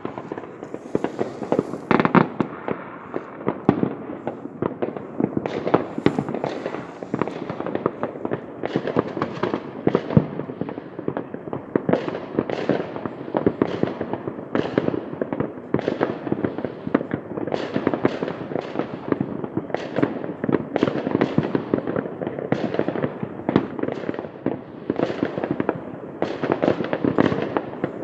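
Many fireworks going off at once: a continuous barrage of overlapping bangs and crackles with no let-up.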